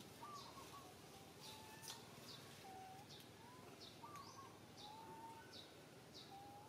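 Faint bird calls: a short, high, falling chirp repeated about twice a second, with lower whistled notes about once a second.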